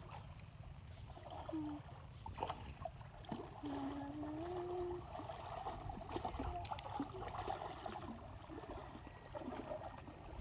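River water running and splashing, with scattered short splashes. A faint wavering held tone rises and falls around four seconds in.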